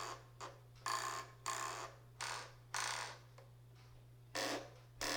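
Toggle switches on a Spektrum NX10 radio-control transmitter being flipped back and forth: a series of about eight short, sharp clicks at an uneven pace, with a pause of about a second near the end.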